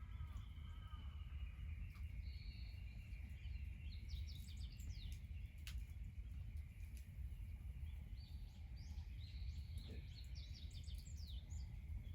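Birds calling, with two runs of quick high chirps, about four seconds in and again near the end, over a steady low rumble of background noise.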